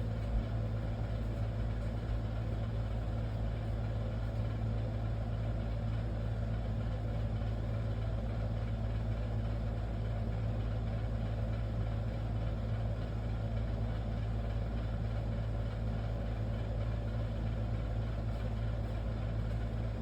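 A steady low mechanical hum with an even drone that does not change, like a motor or fan running continuously.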